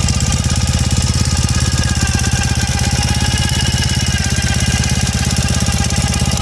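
Ural Retro motorcycle's air-cooled flat-twin engine idling steadily through ceramic-coated header pipes and short FMF pea-shooter mufflers, giving a throaty exhaust note with a rapid, even pulse.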